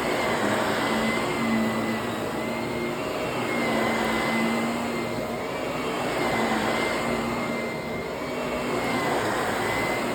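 Vacuum cleaner running on carpet: a steady motor whine over rushing air, the sound swelling and easing every two seconds or so.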